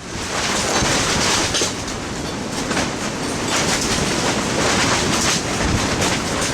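Strong storm wind gusting and buffeting the microphone: a loud, rushing noise that swells and eases every second or so.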